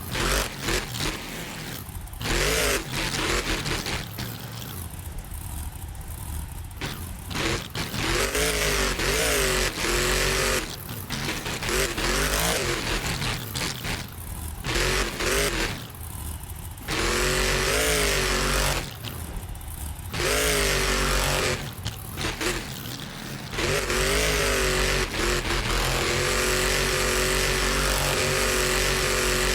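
A monster truck revving hard in repeated bursts, its pitch swinging up and down between short lulls. It settles into a steady high-revving run for the last few seconds.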